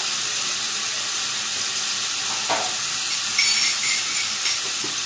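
Seafood and carrot strips sizzling steadily in a wok. A short knock comes about two and a half seconds in, and a few brief clinks follow about a second later.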